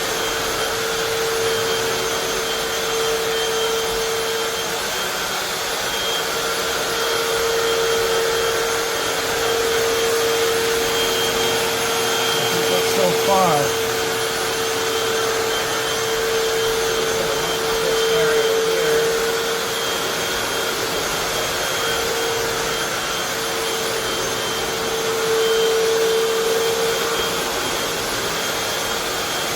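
Hoover FloorMate Deluxe wet/dry hard floor cleaner running steadily: its suction motor makes a continuous whooshing noise with a steady tone through it, and there are a few short swells in level.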